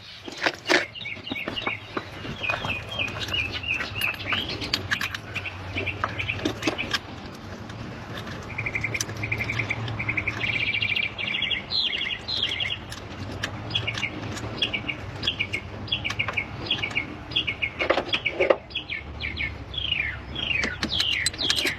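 Small birds chirping and trilling again and again in quick, repeated phrases, with scattered sharp clicks and knocks.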